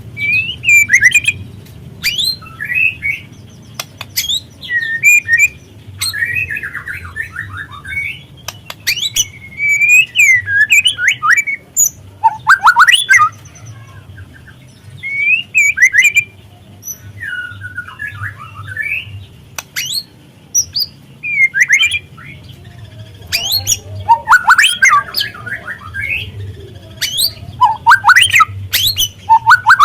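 White-rumped shama (murai batu) song used as a lure: loud whistled and chattering phrases in bursts of a second or two, mixed with sharp clicking notes and separated by short pauses, over a low steady hum.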